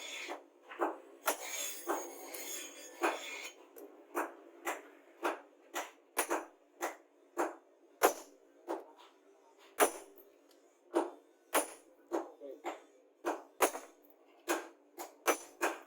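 A rhythmic series of short, sharp metal strokes, about two a second, from hand tools working the steel blade of a rusty knife.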